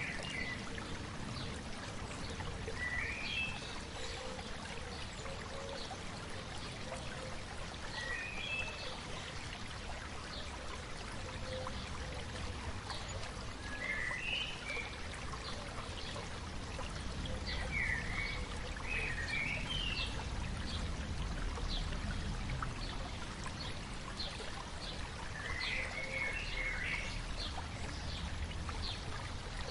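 A stream flowing steadily, with a songbird singing short warbling phrases every few seconds. Faint short ticks are scattered through it.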